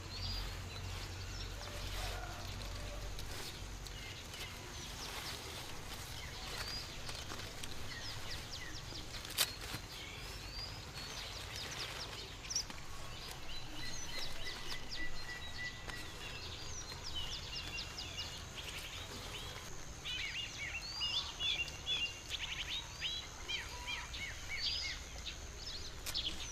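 Small birds chirping in quick, short calls over a steady background hiss, the chirping growing busier and denser in the second half.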